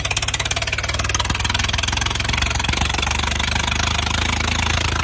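Tractor diesel engine idling with a steady, rapid pulse.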